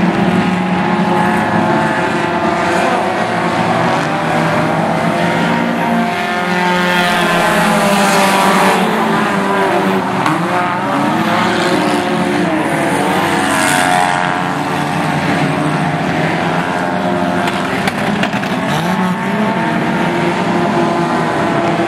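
A pack of race car engines running together during a race, several at once, their pitches rising and falling as cars pass and accelerate.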